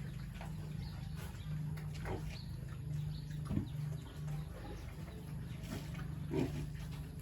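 Pigs grunting in a few short grunts over a steady low hum.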